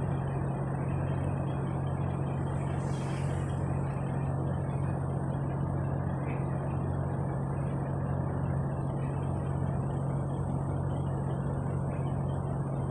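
Semi-truck on the road: a steady engine drone with road noise, and a brief hiss about three seconds in.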